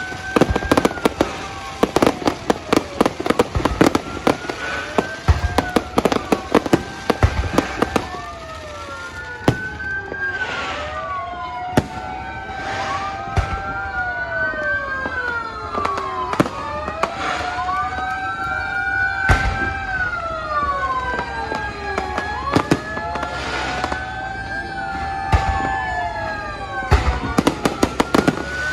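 New Year fireworks going off: rapid bangs and crackles, densest in the first few seconds and again near the end. From about a third of the way in, siren-like wailing tones that rise, hold and fall overlap one another every few seconds, with fewer bangs among them.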